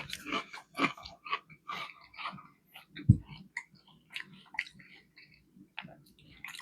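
Close-miked chewing of a fish fillet sandwich, with irregular wet, crackly mouth sounds and small bites.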